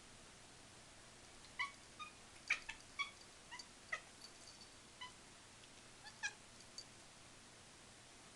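Kitten giving a rapid run of about a dozen short, high chirping cries, an odd call that the owner puts down to a crow being about.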